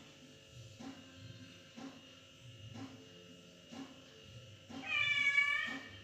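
A domestic cat meows once, a single high call of about a second near the end. Underneath are soft low thuds about once a second and a faint steady hum.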